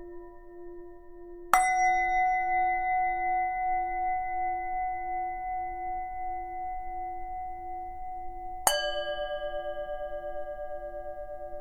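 Tibetan singing bowls struck twice, about a second and a half in and again near the end, each ring holding on and slowly fading. The second strike is lower in pitch. Under both, a lower bowl tone hums throughout with a slow wavering pulse.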